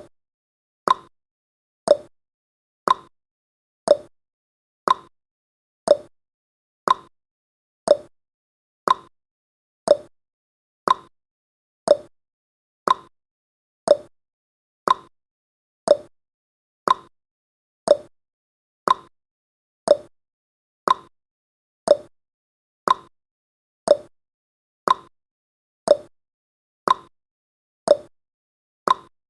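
Countdown timer's clock-tick sound effect: one short, sharp tick every second, steady and even, each with a brief ringing decay.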